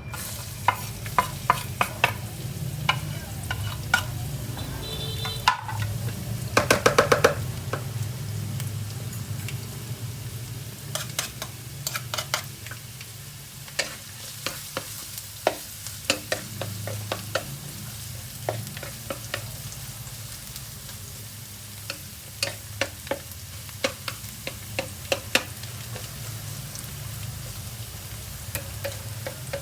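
Garlic egg fried rice sizzling in a hot pan while being stirred, with frequent sharp clicks of the utensil striking and scraping the pan. About seven seconds in comes a quick run of strikes.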